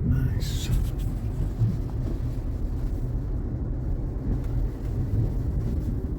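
Steady low rumble of road and tyre noise inside a moving car's cabin, the tyres running on rain-wet pavement.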